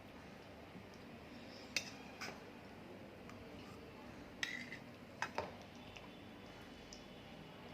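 A spoon clinking against dishes while food is served, about five short clinks scattered through a quiet stretch, two of them close together a little past the middle.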